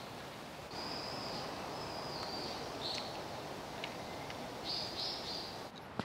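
Birds calling in short, high, steady notes, several with a step in pitch, over a constant outdoor background hiss.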